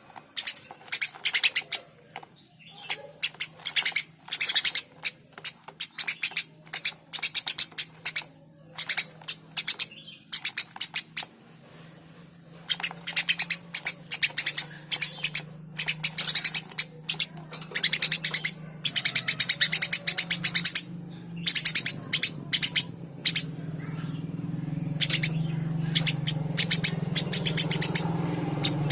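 Eurasian tree sparrow chirping vigorously in fast, rattling runs of high chirps, repeated over and over with short breaks. A steady low hum grows louder underneath in the second half.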